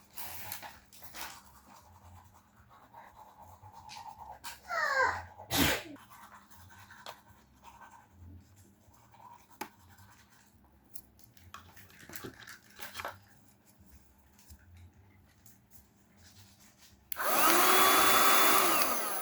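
Quiet scattered clicks and knocks. Then, about 17 seconds in, a vacuum cleaner motor switches on suddenly and runs with a steady whine for about two seconds before starting to wind down at the end.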